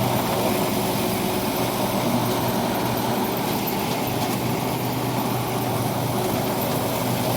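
Rice combine harvester's diesel engine running steadily, with a constant low hum.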